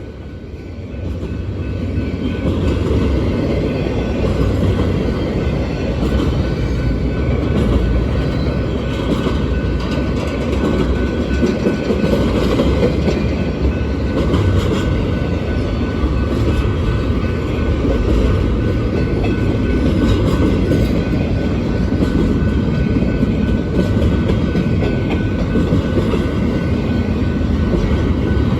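Cars of a Union Pacific intermodal freight train rolling past: a steady, loud rumble of steel wheels on the rails. It swells over the first couple of seconds and then holds.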